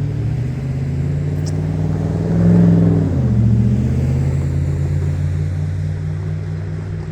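A motor vehicle with its engine running drives close past, getting louder to a peak about two and a half seconds in, its engine pitch dropping sharply as it goes by, then going on at the lower pitch.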